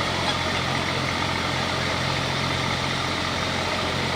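Diesel pulling-tractor engine idling steadily.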